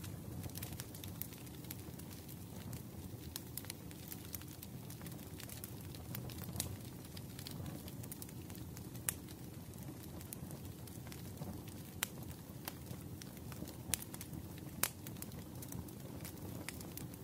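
Wood fire burning in a fireplace: a steady low rumble with irregular crackles and sharp pops, a few louder pops in the second half.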